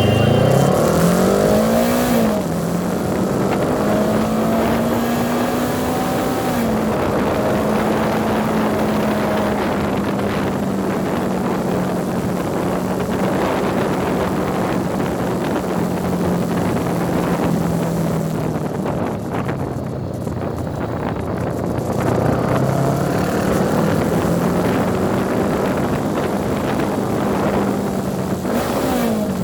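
Honda CB 500X motorcycle engine pulling through the gears. The pitch climbs and drops back at two shifts in the first seven seconds, then holds steady at cruise and climbs again near the end before another shift. Wind rushes over the microphone throughout.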